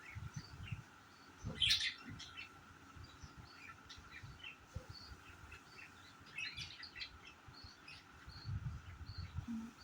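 Pet budgerigars chirping and twittering in short, scattered calls, busiest about a second and a half in and again past the middle, with some low rumbling underneath.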